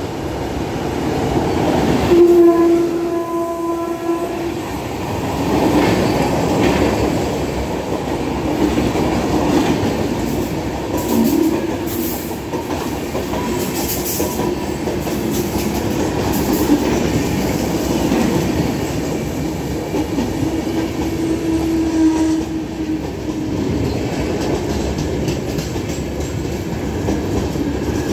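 Express train hauled by a WAP-7 electric locomotive running through the station: its LHB coaches roll past with steady wheel-on-rail noise. The locomotive's horn sounds about two seconds in for a couple of seconds, briefly again near eleven seconds, and once more around twenty seconds.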